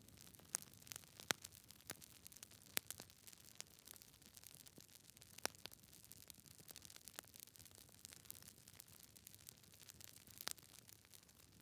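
Wood fire crackling in a fireplace: irregular sharp pops and snaps from the burning logs over a soft hiss, with the loudest snaps about a second in, near three seconds, at five and a half seconds and at ten and a half seconds.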